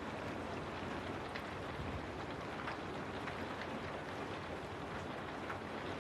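Steady rain falling: a continuous even hiss with scattered sharper drop ticks.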